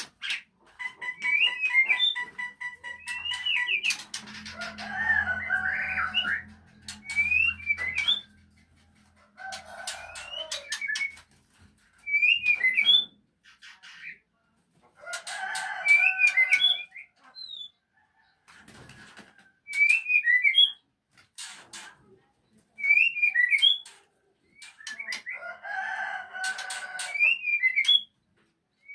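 White-rumped shama singing short, curling whistled phrases every few seconds, with a rooster crowing several times in the background.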